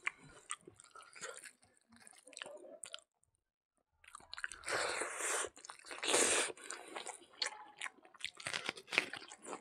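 Close-up eating sounds of a man eating with his hands: wet chewing and biting with crisp crunches. There are two louder hissing bursts about halfway through, and denser crunching near the end as he bites into a raw red onion.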